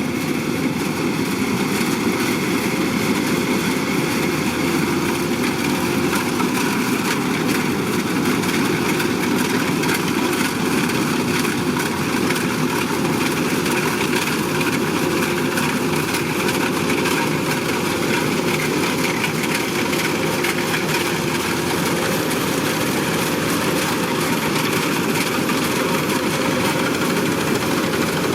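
Kubota DC-105X combine harvester's diesel engine running steadily, a loud even machine noise that does not change through the stretch.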